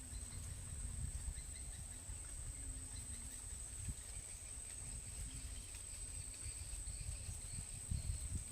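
Steady high-pitched drone of insects in the riverside vegetation, holding one even tone throughout, over a low rumble.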